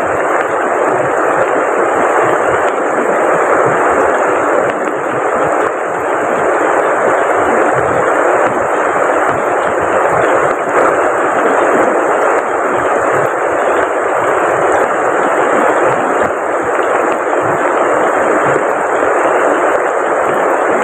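Heavy rain falling steadily beside a river, an even, unbroken wash of water noise, with a faint steady high-pitched whine above it.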